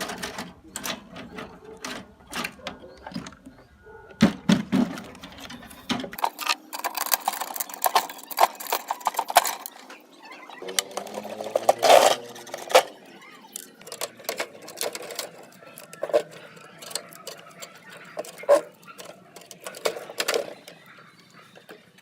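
Irregular sharp clicks and knocks of workshop handling, with an abrupt change in the sound about six seconds in.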